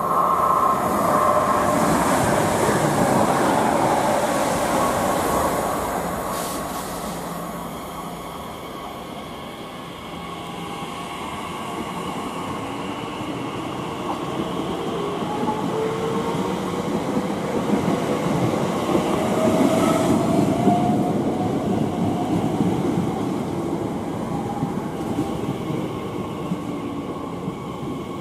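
Trains running through a station. The first few seconds are loudest, then the sound eases off. From about a third of the way in, a whine from a train rises steadily in pitch and grows louder, peaking about two thirds of the way through.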